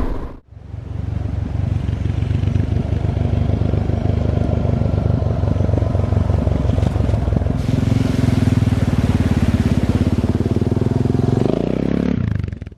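Suzuki DR650's single-cylinder four-stroke engine running at a steady road speed, with the revs dropping about a second before the end as the bike slows.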